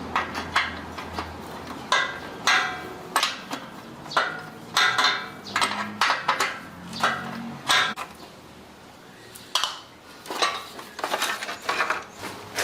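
Metal tools and parts clanking and knocking on one another in many irregular strikes, each with a short metallic ring, with a brief lull about two-thirds of the way in.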